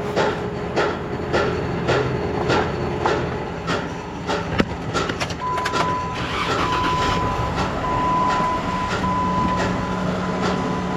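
Truck running, heard from inside the cab, with a steady rumble under it. For the first half a regular ticking comes about one and a half times a second; from about halfway a thin steady tone runs on with short breaks.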